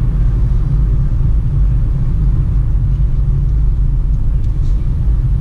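Steady low rumble of engine and road noise inside the cabin of a moving Peugeot Partner van.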